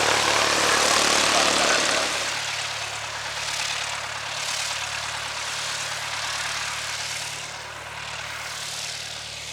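Propeller-driven light airplane engine running loud at first, then fading steadily as it moves away from about two seconds in.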